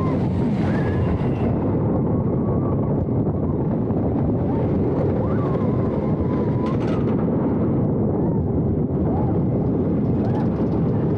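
Roller coaster in motion heard from a rider's seat: a loud, steady rumble and rush of noise from the train running on the track.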